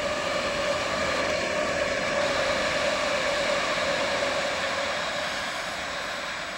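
Electric trains running on the line: a steady rolling rumble with a drone, swelling slightly a couple of seconds in and easing off toward the end.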